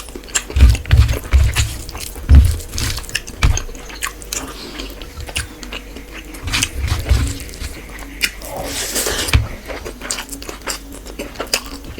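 Close-up eating sounds: chewing and biting into fish and rice, with many wet mouth clicks and clusters of heavier low thumps.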